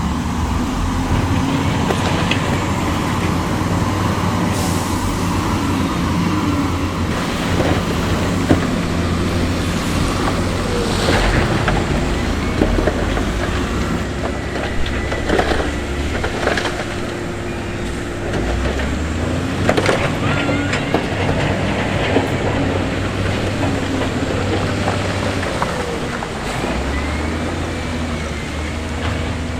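Diesel engines of heavy earthmoving machinery running under load, the engine note shifting in pitch a couple of times. Scattered clanks and knocks of stone against steel sound over it.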